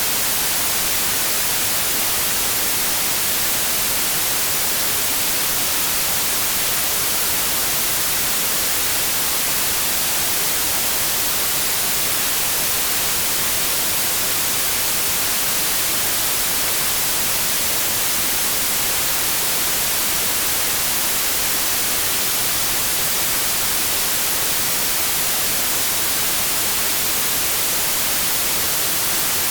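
Synthetic white noise: steady, unchanging static hiss with an even, bright spread of sound.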